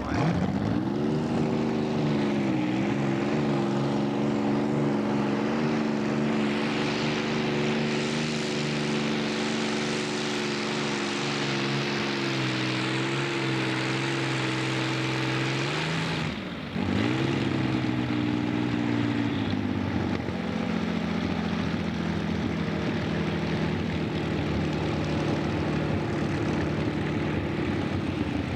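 A competition pulling tractor's engine running flat out during a pull. It revs up at the start and holds a steady high pitch, then drops suddenly for a moment about two-thirds of the way in before climbing back to full revs.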